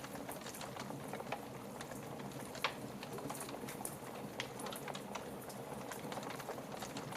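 Wood fire crackling in a fireplace: irregular small crackles and pops over a soft hiss, with one sharper pop about two and a half seconds in.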